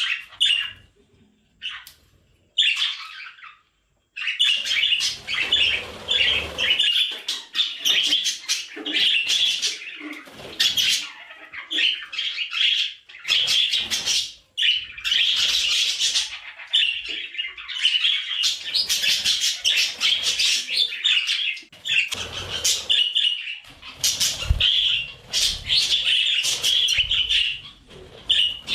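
Budgerigars chattering and warbling: a dense, almost unbroken run of rapid chirps, squawks and scratchy warbling, with a few short calls in the first few seconds before it sets in.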